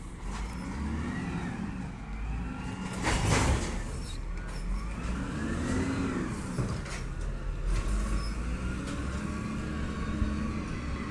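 Garbage truck engine revving up and down in repeated swells, with a short loud hiss about three seconds in.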